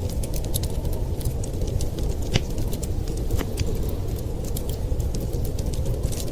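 Wood fire crackling with many small scattered pops, a couple of sharper pops in the middle, over a steady low rumble of storm wind.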